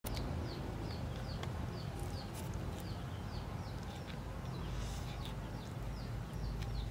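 Small birds chirping over and over with short falling chirps, two or three a second, over wind rumbling on the microphone, with a few sharp clicks.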